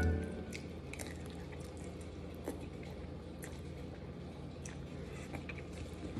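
A person chewing a mouthful of chicken Alfredo pasta close to the microphone, with scattered small wet mouth clicks.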